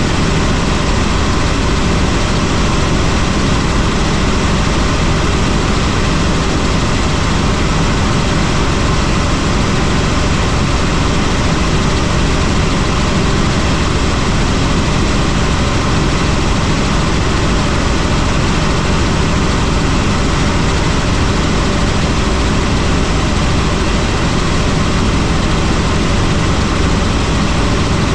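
Helicopter in flight, its engine and rotor noise steady and loud throughout, with no change in pitch or level.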